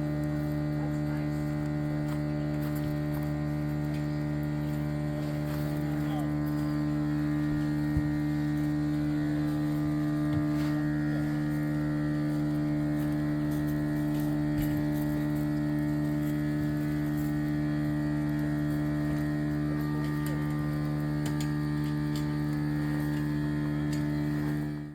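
Steady machine hum, a few pitches held level without change, cutting off abruptly at the end.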